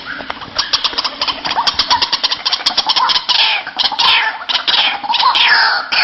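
White-breasted waterhen calling: a fast run of short clicking notes from about half a second in, turning into loud, repeated down-slurred calls, about two a second, from about three seconds in.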